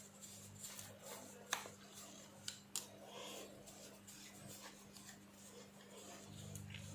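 A few faint sharp clicks and soft rubbing as small plastic parts of a hair trimmer are handled and pressed into place, over a low steady hum.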